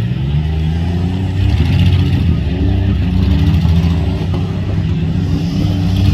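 Compact demolition derby cars' engines revving, their pitch climbing and dropping again and again.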